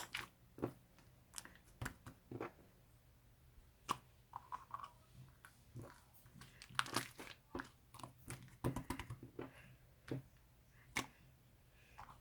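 Slime being squeezed and poked by hand, giving irregular sticky clicks, pops and short crackles, with a denser run of crackling about two-thirds of the way through.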